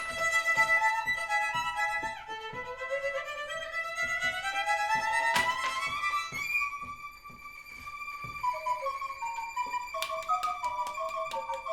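Instrumental music led by a violin: held notes, then a long slow upward glide in the middle, then shorter stepping notes with light tapping clicks near the end.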